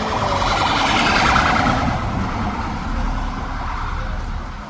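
Emergency vehicle siren with a fast pulsing tone, loudest in the first two seconds and then fading, over a steady low rumble of traffic or wind.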